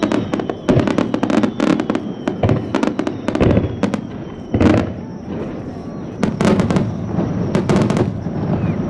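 Fireworks display: aerial shells bursting in quick succession, a dense run of sharp cracks mixed with deeper booms, with louder clusters about halfway through and again toward the end.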